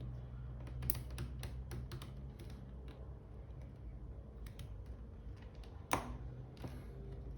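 Small, irregular clicks and taps of hands and tools working on a G-Shock watch and its band, with one sharper click about six seconds in, over a steady low hum.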